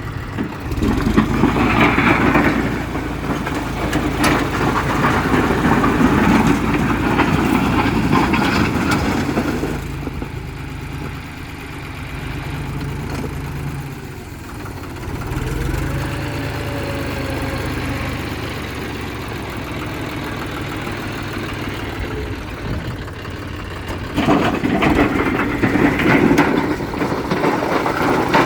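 Tractor engine running, louder for the first third and again near the end, and quieter and steadier in between.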